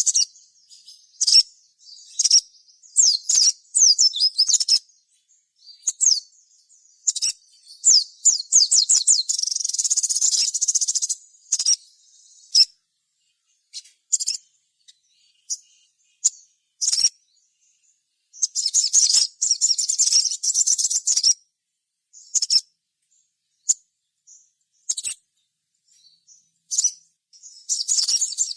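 Crimson sunbird (sogon) singing vigorously: high, rapid chittering trills alternating with short sharp chirps, with the longest trill runs about a third of the way in, two-thirds of the way in, and again at the very end.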